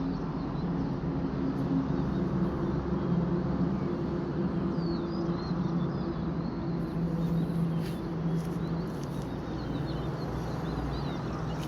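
Steady low droning hum with faint, short, high bird chirps scattered through it. No loud peacock call stands out.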